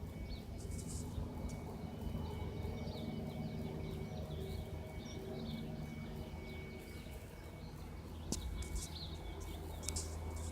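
Small birds chirping over a steady low engine drone from distant aircraft, with a few sharp clicks near the end.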